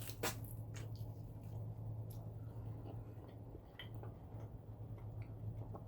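Faint scattered clicks and light handling noises over a low steady hum.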